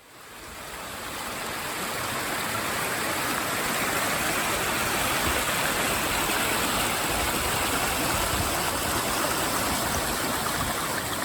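Steady rush of flowing stream water, fading in over the first second or two.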